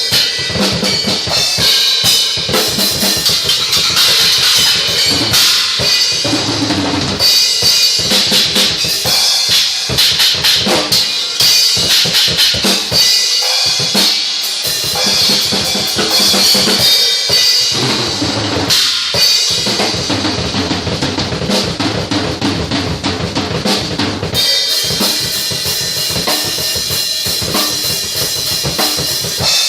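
A Pearl Export drum kit played hard and busily: bass drum, snare and tom strokes packed close together under a constant wash of crash and ride cymbals. The pattern briefly changes about two-thirds of the way in, then carries on.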